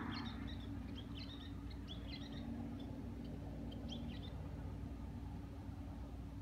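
Scattered short, high chirps of small birds for the first four seconds or so, over a steady low hum.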